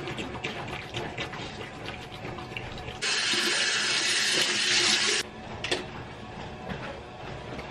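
Water running from a tap into a sink, starting abruptly about three seconds in and stopping abruptly about two seconds later. Before and after it, quieter clicks and small clatter of things being handled.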